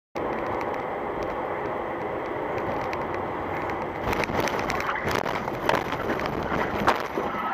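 Steady road and engine noise of a car driving, with a few short knocks and clicks in the second half.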